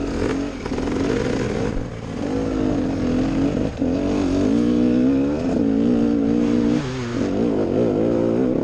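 Enduro dirt bike engine being ridden, the revs rising and falling again and again as the throttle is worked, with short dips about two, four and seven seconds in.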